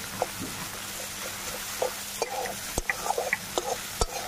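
Sliced onions, whole spices and ginger-garlic paste sizzling in a steel wok as a spatula stirs them, with a couple of sharp knocks of the spatula against the pan.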